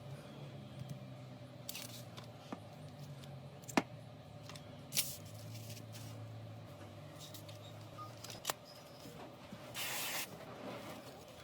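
Small hand-work noises of phone repair: scattered sharp clicks and taps of tools and parts, with two short hissing bursts, one early and one near the end, over a steady low hum.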